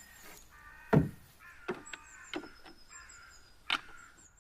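A handful of sharp knocks, the loudest about a second in and again near the end, as of timber being struck while the canoe's ribs are fitted. Birds call faintly in the background.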